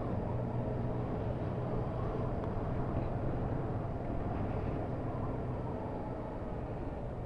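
Motorcycle engine running at a steady cruise, heard from on board the moving bike, with road and wind noise; it eases off slightly near the end.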